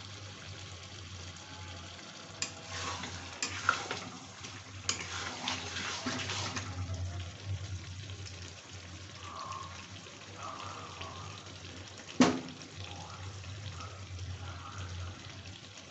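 Chicken and onion masala sizzling in a kadai while a spatula scrapes and stirs through it. One sharp knock about twelve seconds in.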